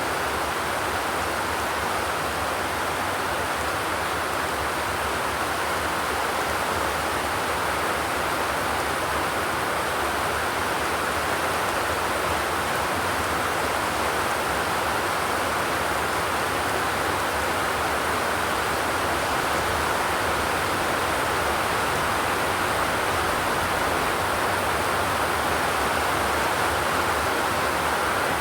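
Steady rain falling, a continuous even hiss with no thunder.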